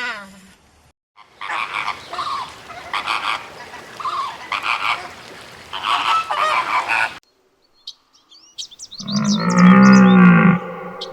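Animal calls: a series of repeated calls over background noise, then after an abrupt break high chirps and a loud low call.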